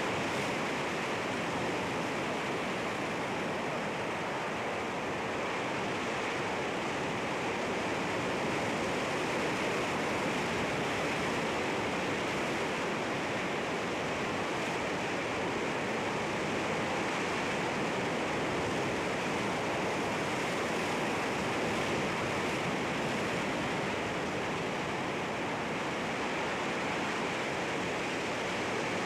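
Sea waves washing against rocks, a steady, even rush of water with no distinct breaks or surges.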